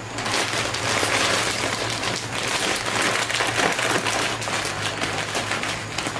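Plastic bag and packaging rustling and crinkling as packets and boxes of milk are taken out and handled, a continuous crackle of small clicks.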